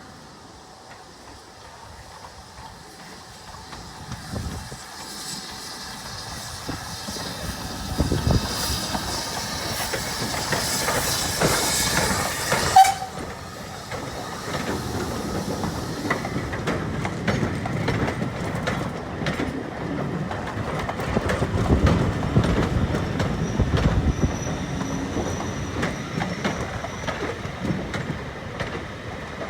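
A heritage railway train approaching and passing close by. A rising rush of noise as the locomotive nears cuts off sharply about 13 seconds in, followed by the carriages' wheels clacking over the rail joints as they roll past.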